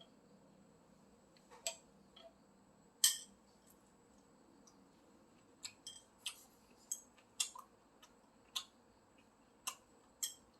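Eating sounds: about a dozen short, sharp clicks and smacks at irregular intervals, the loudest about three seconds in, over a faint steady background.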